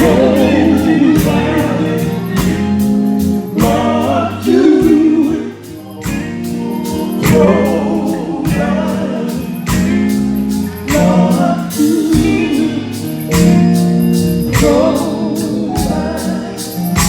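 Live gospel music: a vocal group singing with wavering vibrato over a band with a steady drum beat.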